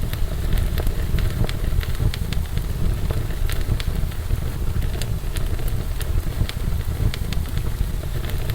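Wood fire burning in a fireplace: a steady low roar with frequent sharp crackles and pops.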